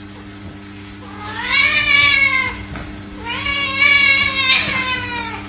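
A cat giving two long, drawn-out meows, each rising and then falling in pitch, over a steady low hum.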